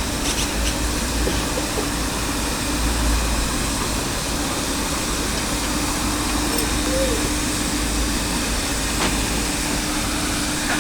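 Steady rumble and rushing noise of a train, with a faint steady hum that comes in about halfway through and a few light clicks.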